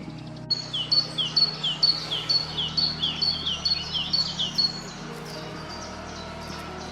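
A songbird repeating a two-note phrase about nine times, roughly two a second: a steady high note, then a lower falling one. The song stops about five seconds in, leaving a steady outdoor hiss with faint chirps.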